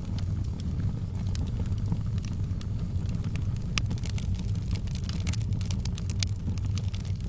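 Wood fire crackling in a fireplace: many irregular sharp pops and snaps, thicker in the second half, over a steady low rumble.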